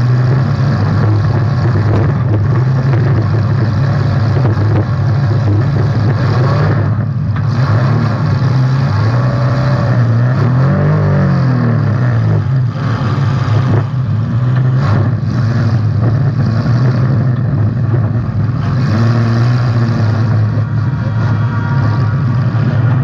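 Demolition derby car's engine running loud and revving up and down, its pitch rising and falling several times.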